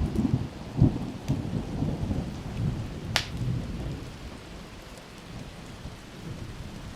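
Thunder rumbling low over steady rain, fading away after the first few seconds, with one sharp crack about three seconds in.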